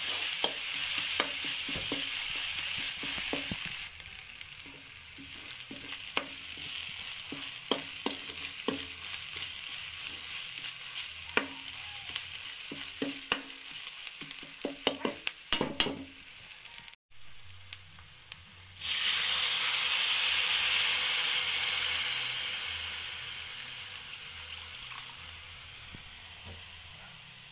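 Masala frying and sizzling in an aluminium kadhai, with a steel ladle scraping and clinking against the pan as it is stirred. About two-thirds of the way in, after a brief break, a sudden loud sizzle as water goes into the hot masala, dying down gradually.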